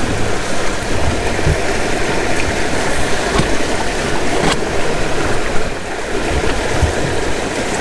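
Water rushing and splashing along the hulls of a Windrider 17 trimaran sailing at speed, a steady loud wash with a few sharp knocks.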